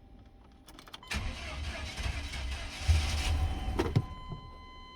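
A 1998 Chevy C1500's V8 is cranked by the starter and catches about a second in, running loudly and then settling down after about four seconds. It starts now that a clogged fuel filter, the cause of its crank-no-start, has been replaced.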